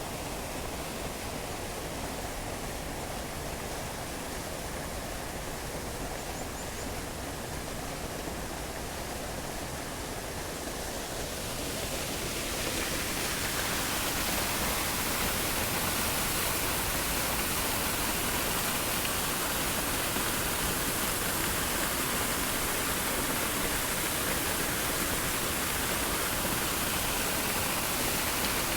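Steady rush of falling water from the Triberg waterfall's cascades. About twelve seconds in, it grows louder and brighter, then holds level.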